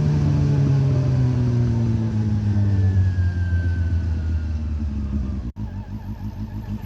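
Honda CB400 Revo's inline-four engine through a Moriwaki exhaust, its note falling steadily for about five seconds as the bike slows. After a sudden break about five and a half seconds in, a lower, evenly pulsing engine note follows.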